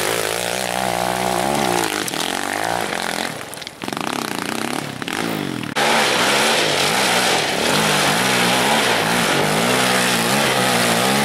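Small off-road vehicle engine revving up and down under load on a loose-stone climb. The sound fades back a few seconds in, then returns suddenly at full level about six seconds in.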